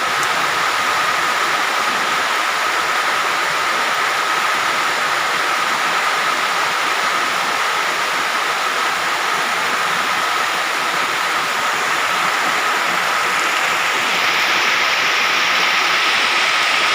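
Heavy rain falling, a steady loud hiss, with a thin high tone running under it; the rain grows a little louder near the end.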